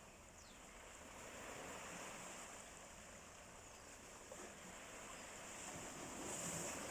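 Sea surf washing on the shore, a steady wash of waves that swells about two seconds in and again near the end.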